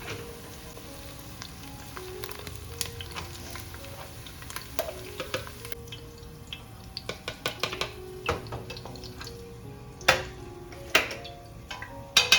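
Food frying in a pan with a steady sizzle while it is stirred, with scattered utensil clicks and three sharp knocks of a utensil against the pan near the end. Soft background music plays over it.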